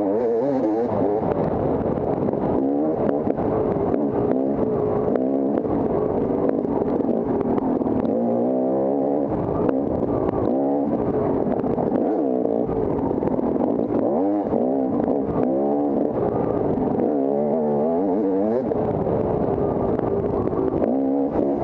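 Dirt bike engine ridden hard on an off-road course, its pitch rising and falling again and again as the throttle is opened and shut.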